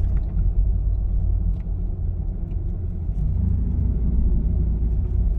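A car driving on a narrow road: a steady low rumble of engine and road noise.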